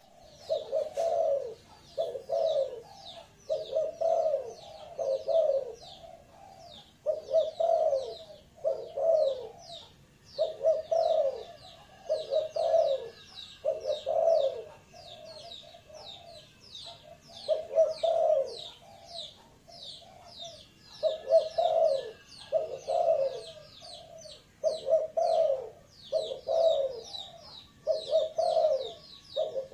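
Spotted dove (tekukur) cooing over and over, in short phrases of a few low notes with brief pauses between them. A steady stream of quick, high chirps runs behind the cooing.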